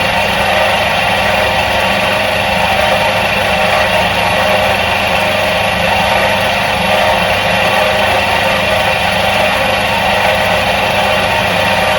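Electric motor of a 1977 Soviet washing machine running steadily: a constant hum with several held tones and no change in speed.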